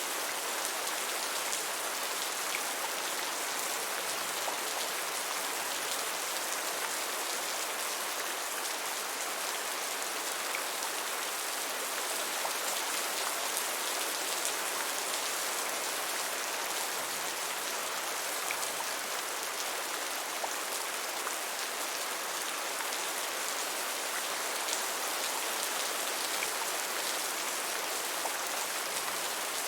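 Steady rain falling, an even hiss with fine drop ticks and no change in intensity.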